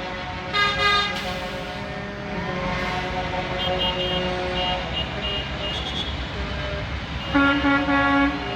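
Parade trucks' horns blasting twice, a short blast about a second in and a longer, steady-pitched one near the end, over the steady rumble of the trucks' engines passing.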